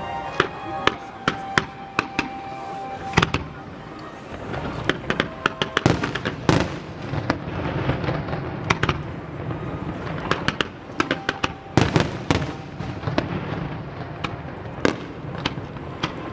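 Fireworks display: many sharp bangs and crackling reports going off in an irregular series, some in quick clusters, with louder single bursts scattered through.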